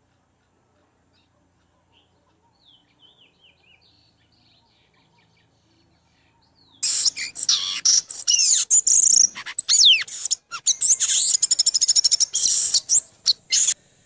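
Bird chirping: a few faint, short falling chirps, then from about seven seconds in loud, high chirps, sweeping whistles and rapid trills that break off and restart abruptly.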